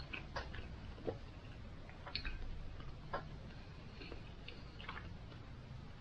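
Quiet chewing of a mouthful of tender slow-cooked steak, with faint irregular mouth clicks.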